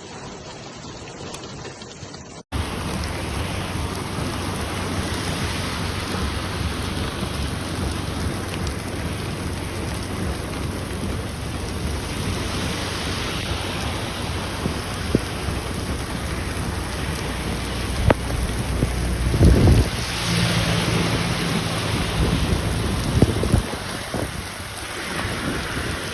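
Heavy rain pouring steadily, cutting in abruptly after a quieter first couple of seconds. Low rumbles swell about two-thirds of the way through and again shortly after.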